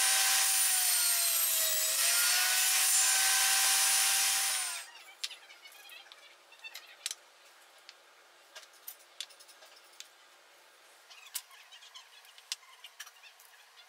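Electric power saw running and cutting wood, its motor pitch dipping briefly under load about two seconds in. The saw stops about five seconds in, followed by faint clicks and knocks of wood being handled.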